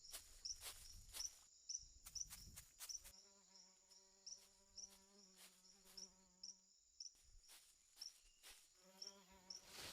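Faint rainforest insect chorus: a steady high-pitched drone with short chirps repeating about twice a second, and scattered sharp clicks. From about three seconds in a low buzz joins, like flying insect wings. It stops for a second or two around seven seconds, then returns near the end.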